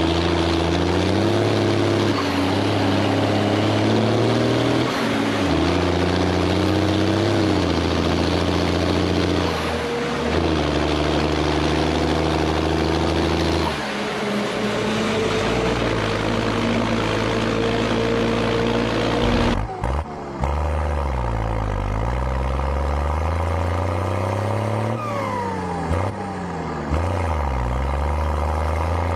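Large tractor's diesel engine labouring under a heavy load, its pitch shifting in steps over a loud noisy wash. Just before two-thirds through the sound cuts, and after that the engine's pitch dips and rises twice.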